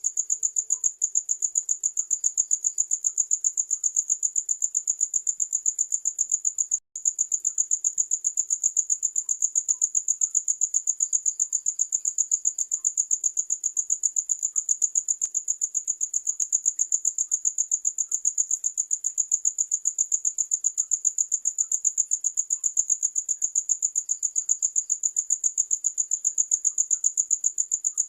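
Crickets chirping steadily: a high-pitched song of rapid, evenly repeated pulses, with a brief break about seven seconds in.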